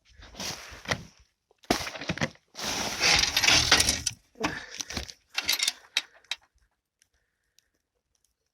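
Hard objects clattering and scraping in a run of irregular bursts, then a few light clicks near the end.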